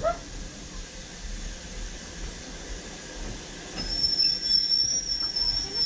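Heritage train carriage running along the rails, heard at an open window: a steady low rumble of the wheels with rushing air. From about four seconds in a high, steady squeal of wheels on the rails joins in and is the loudest sound.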